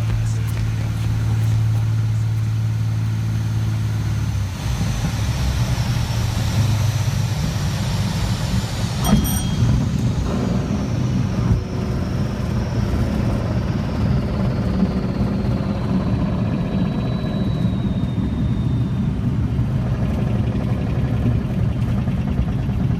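Zlín Z 43 light aircraft's piston engine running steadily; its note changes about four and a half seconds in from an even hum to a rougher, noisier sound.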